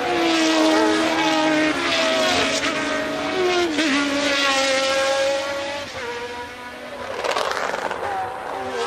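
1982 Formula One race cars' engines running at high revs on track, several engine notes overlapping and sliding slightly in pitch as cars pass and shift gear. The sound dips around six seconds, then a noisier, louder pass comes about seven seconds in.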